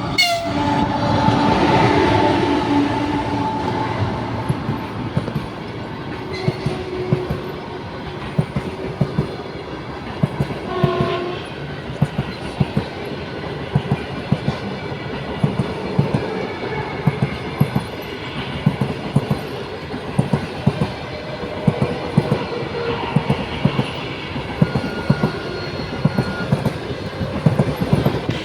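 An EP20 electric locomotive and its passenger carriages passing. The horn sounds at the start and gives a short blast about 11 seconds in, then the wheels clack steadily over the rail joints as the carriages roll by.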